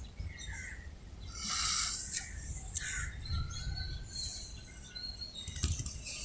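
Birds chirping, with scattered bursts of chirps and a couple of thin, drawn-out whistled notes in the middle, over a steady low background rumble.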